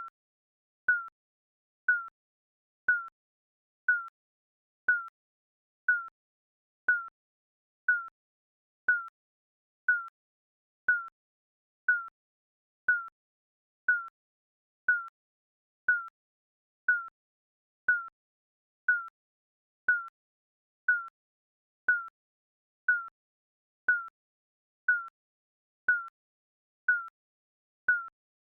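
Digital countdown beep: a short, slightly falling electronic tone repeating once a second, with silence between beeps.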